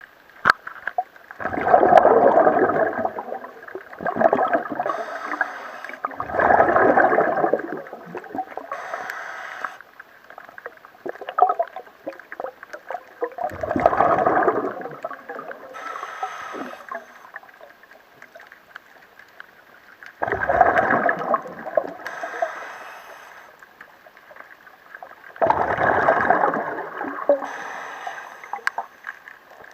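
Underwater sound of a scuba diver breathing through a regulator. A gurgling rush of exhaled bubbles comes about every six seconds, each followed by a thinner hiss of inhaling.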